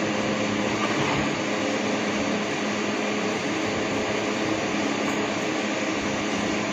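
Steady rushing noise with a faint low hum, unchanging throughout.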